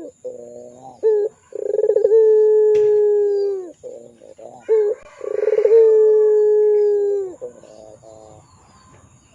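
Puter pelung, a long-cooing Barbary dove, cooing. It gives short clipped notes, then a long drawn-out coo held for about two seconds that drops at the end. The same pattern comes again, and it fades near the end.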